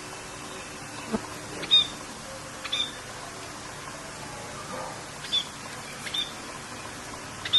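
Short, sharp bird calls repeated about every second, over a steady hiss of rain.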